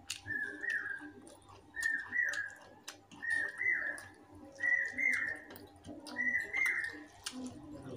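A bird's whistled two-note call, repeated evenly five times about every one and a half seconds. Between the calls come short wet clicks of chewing and of fingers working rice.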